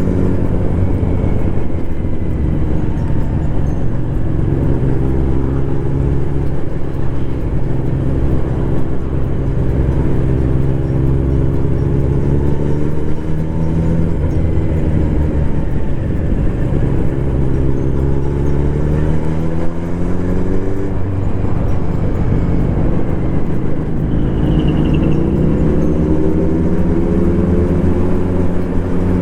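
Kawasaki Z900RS inline-four engine through its stock full exhaust system, heard while riding: the engine note climbs in pitch under acceleration and drops back at each gear change, several times over.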